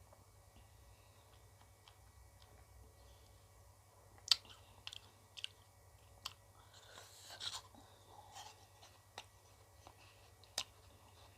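Close-up mouth sounds of eating ice cream: chewing, with a few sharp crunching clicks scattered through the second half.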